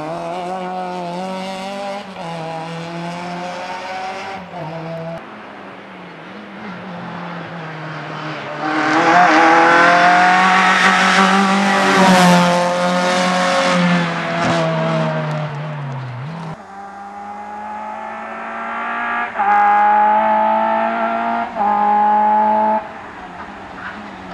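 VW Golf Mk2 rally car's four-cylinder engine being driven hard, its revs rising and falling through the gears. It is loudest at high revs in the middle. About two-thirds of the way through the revs drop suddenly, then climb again in steps, each climb cut off sharply at a gear change.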